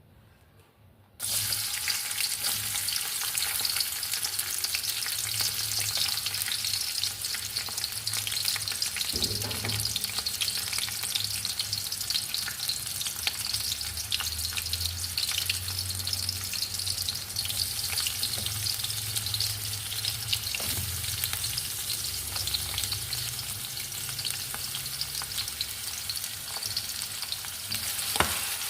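Food frying in hot oil in a pan: a steady sizzle with many small crackles, starting abruptly about a second in.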